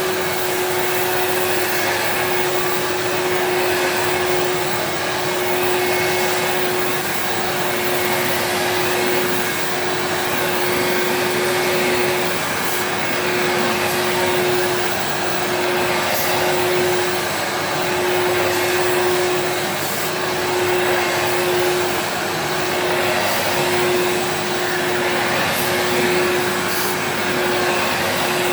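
1980 Miele S125 straight-suction stick vacuum, a 700-watt twin-fan motor, running steadily at one constant pitch while vacuuming sand out of a carpet. The level rises and falls slightly.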